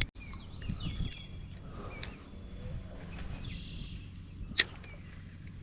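Small birds chirping in short calls over a low steady hum, with a faint swish about three seconds in and a single sharp click near the end.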